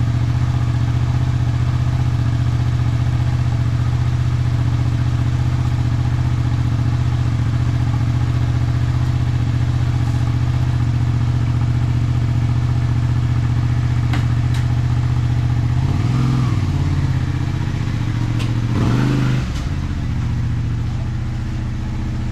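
Honda VTR250's V-twin engine breathing through a Mugen aftermarket muffler, idling steadily. Near the end it is given two short throttle blips a few seconds apart, then settles back to idle.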